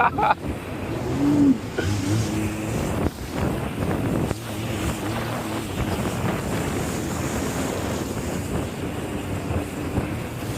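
Jet ski engine running steadily at speed, with wind rushing over the microphone and the rush of water.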